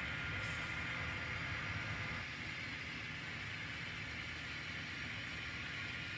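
N scale model train running on the layout track: a steady running noise that gets a little quieter about two seconds in.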